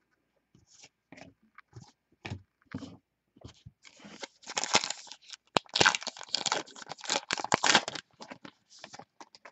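Crinkling and tearing of a trading-card pack wrapper, starting with a few light clicks of cards being handled and growing into a dense run of crackling about four seconds in, which lasts several seconds.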